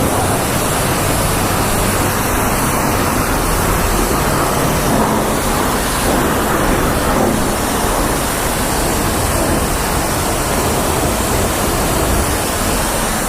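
Coin-operated car wash high-pressure wand spraying water in a loud, steady rush. The spray cuts off right at the end, as the paid wash time runs out.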